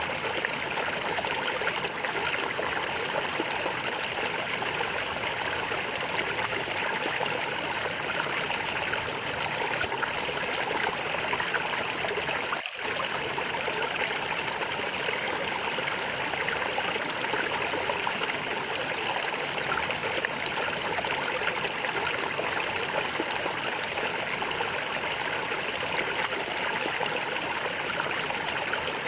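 Running water gurgling and flowing steadily, with a momentary dip in level a little before halfway through.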